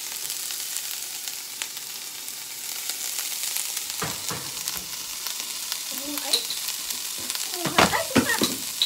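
Diced onions sizzling in hot oil in a stainless-steel skillet, with a steady hiss. A wooden spoon stirs and scrapes the pan, with the loudest scrapes and knocks near the end.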